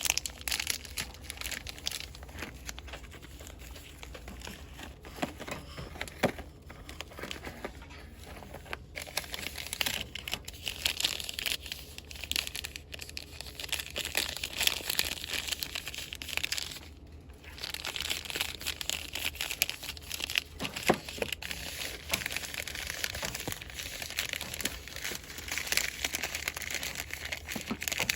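Fast, vigorous crinkling and rustling of cosmetics packaging handled and squeezed by hand, in quick irregular bursts, with a brief pause roughly two-thirds of the way through.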